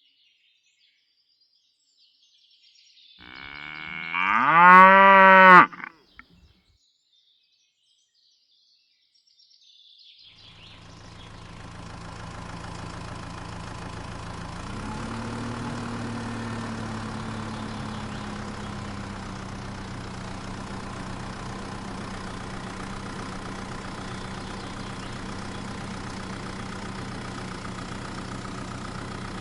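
A cow moos once, loudly, with the pitch rising and then falling. After a pause, an engine starts up at about 10 s and runs steadily, its pitch rising slightly a few seconds later.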